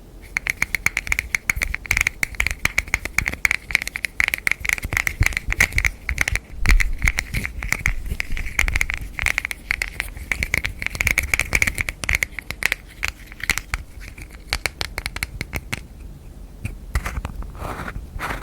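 Rapid hand tapping and scratching on a hard object, many light taps a second with a ringing tone under them; the tapping grows sparser and the ringing fades after about thirteen seconds.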